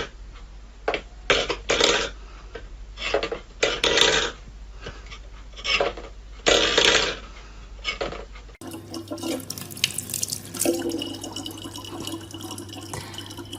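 Water splashing in irregular bursts, as from a running tap into a sink. About eight seconds in it cuts to a different recording: steadier running water over a low electrical hum.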